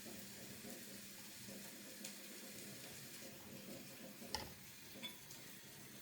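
Food sizzling faintly in a frying pan, with a light crackle throughout and a single ringing clink of a utensil about four seconds in.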